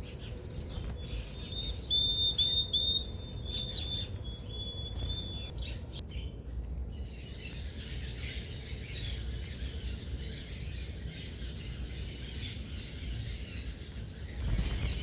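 Several birds at a feeder. First comes a run of short, repeated high notes, loudest two to three seconds in. From about seven seconds on, a dense mass of overlapping high chirps takes over.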